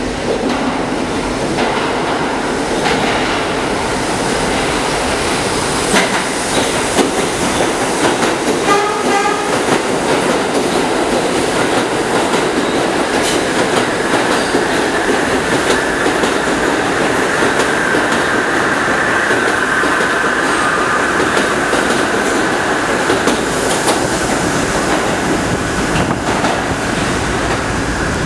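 A New York City subway train of R68 cars runs through a station without stopping: a steady rumble of wheels on rail with clicks over the rail joints. A high steady wheel squeal joins about halfway through.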